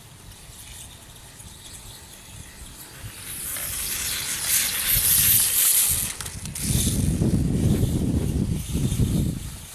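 RC dirtbike driving over loose dirt close by: a hissing scrape of tyres and grit builds up and peaks around the middle, then gives way to a low rumble for a couple of seconds near the end.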